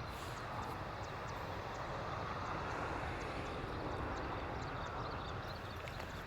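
Steady rushing noise of a waterfall, with faint short high ticks scattered over it.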